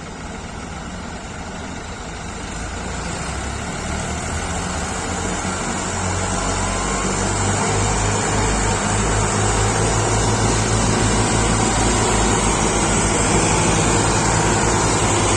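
Heavy diesel engines of farm machinery running hard, growing steadily louder, with a low even throb that strengthens about halfway through.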